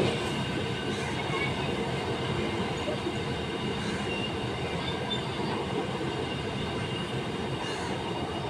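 Freight train of empty container flat wagons rolling past at low speed: a steady rumble of steel wheels on rail with faint high-pitched wheel squeals coming and going.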